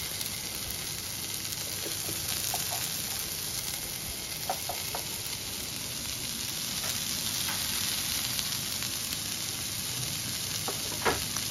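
Soya chunks with onion, capsicum and tomato sizzling steadily as they fry in a pan. A few faint clicks come about halfway through, and a sharper one near the end.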